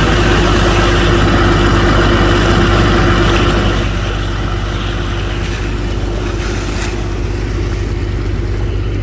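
Engine of a sand-dredging boat's pump running steadily under load as it pumps sand slurry, louder for the first few seconds and easing slightly about four seconds in.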